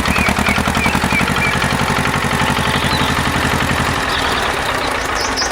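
Engine idling with a steady, rapid chugging, easing slightly about four seconds in.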